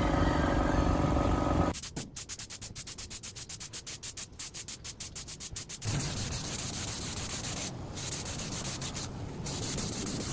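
Sanding on the boat build: a steady tool hum, then fast rhythmic rubbing strokes at about eight a second, then a steady hiss of sanding.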